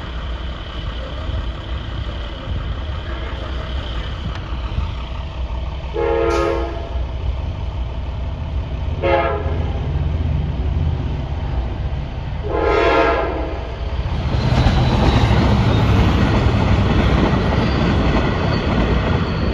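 LIRR diesel push-pull train (DE30AC locomotive with C3 bilevel coaches) sounding its horn three times for the grade crossing: the second blast short, the third the longest. About two-thirds of the way in, the train reaches the crossing and passes with a loud, steady rumble and clatter of wheels on the rails.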